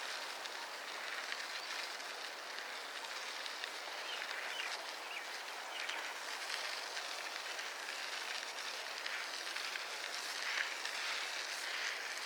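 Steady, even outdoor hiss with a few faint short chirps.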